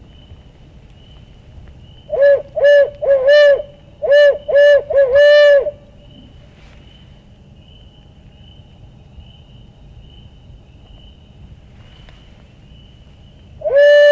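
Barred-owl hooting from a hunter's owl locator call, loud and close. Two quick groups of short hoots, each ending in a longer drawn-out one, come about two to six seconds in, and a single long hoot starts near the end. The call is blown to make a roosted wild turkey gobbler shock-gobble and give away where he is.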